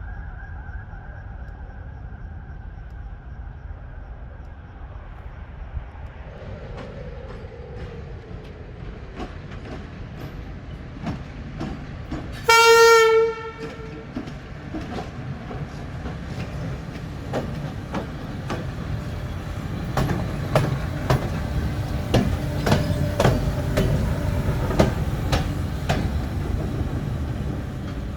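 Romanian EA-class electric locomotive shunting. It gives one short horn blast about halfway through, then its wheels click over rail joints while the rumble grows louder as it rolls closer.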